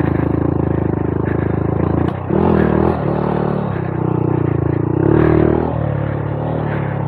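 Honda Monkey 125's single-cylinder four-stroke engine running on and off the throttle. The revs drop briefly about two seconds in and climb again, then rise once more about five seconds in.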